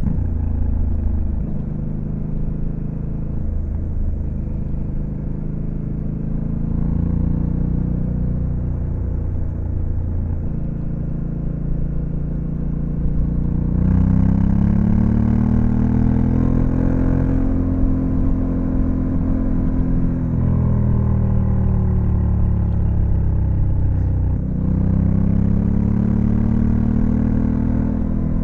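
Honda Africa Twin CRF1100L's 1084 cc parallel-twin engine under way, its pitch stepping up and down as it pulls through the gears. About halfway it gets louder and climbs, then falls away; after a brief drop near the end it climbs again.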